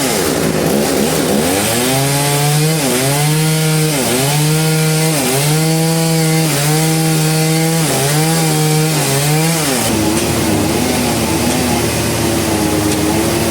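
Chainsaw cutting through a large trembesi log, its engine pitch dipping under load and recovering about every second and a quarter. About ten seconds in, the dips stop and it runs at a steadier, lower pitch.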